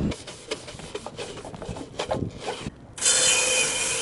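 Irregular rubbing and scraping strokes of scrubbing grime off an aluminium sailboat mast. About three seconds in, a loud steady hiss cuts in suddenly.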